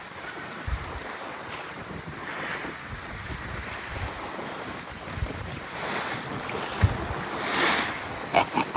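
Wind and waves rushing and slapping around a sailboat's hull as it rolls side-on to the swell, with wind buffeting the microphone. Near the end a louder wave rushes up alongside at the rail.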